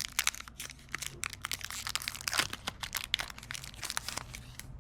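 Foil wrapper of a Pokémon booster pack crinkling as it is handled and torn open: dense, irregular crackles that thin out near the end.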